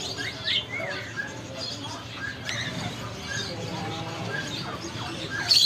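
Green parrots chirping. Short high calls, some gliding up and down in the first second, then a short chirp repeated about once a second, with a louder, sharper call near the end.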